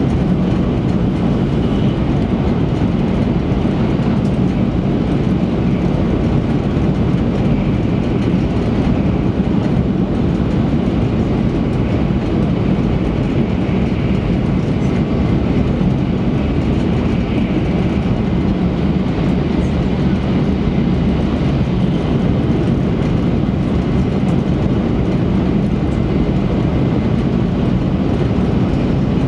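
Cabin running noise of an E3-series Shinkansen train travelling at speed: a steady, low, even noise of wheels on rail and the moving car body, without breaks.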